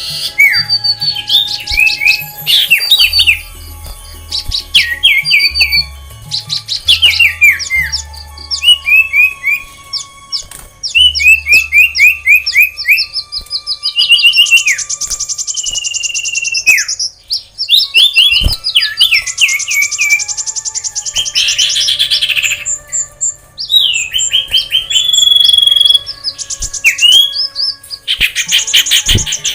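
A mix of aviary songbirds singing and chirping together, with quick runs of falling chirps and fast high trills overlapping one another.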